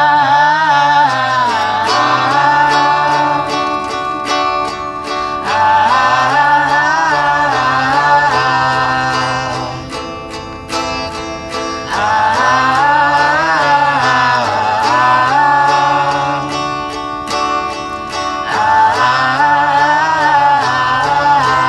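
A small band playing a song live: plucked-string accompaniment under a singing voice, in four long sung phrases with short pauses between them.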